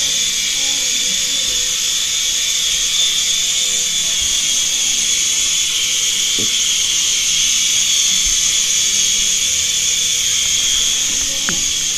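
Small electric RC helicopter in flight, its motor and rotor blades making a steady, high-pitched whir.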